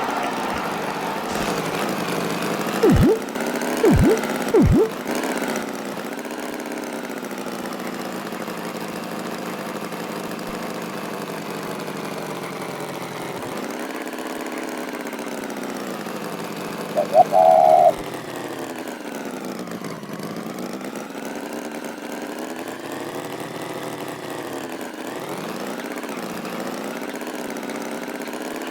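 Cartoon tractor engine sound effect running steadily, its pitch slowly wavering up and down. Three short falling sounds come a few seconds in, and a brief higher beep about midway.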